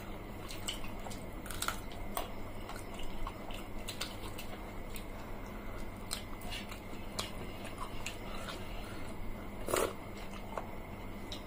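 Close-miked eating sounds of people chewing watered rice and fried fish by hand: soft wet mouth sounds with scattered small clicks and smacks, and one louder click about ten seconds in.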